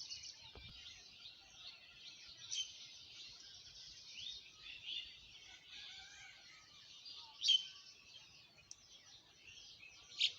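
Many small birds chirping and twittering together in a continuous morning chorus, with a few louder, sharp chirps standing out above it.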